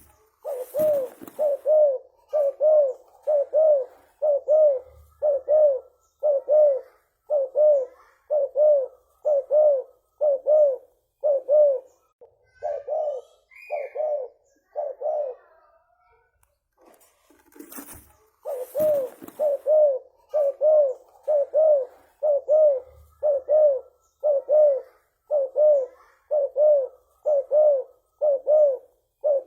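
Spotted dove (tekukur) cooing: short calls repeated about two a second, with a pause of a few seconds past the middle before the series picks up again. A brief burst of noise comes just before the cooing resumes.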